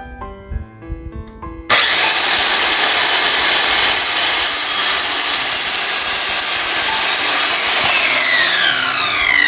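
Electric power saw starting suddenly about two seconds in and cutting wood with a steady loud whir. Near the end it is released and the motor spins down in a falling whine. Piano music plays underneath.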